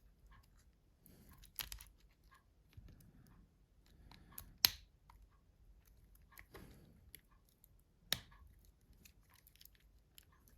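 Small plastic phone parts being handled and fitted by hand: faint scrapes and light clicks, with two sharper clicks, one a little before halfway and one about three-quarters of the way in.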